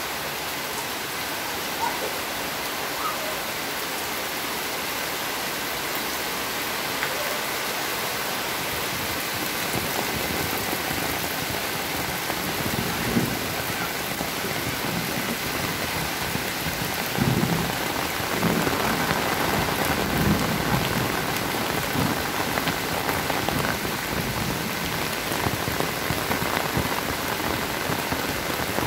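Heavy rain pouring steadily as an even hiss, growing a little louder about halfway through.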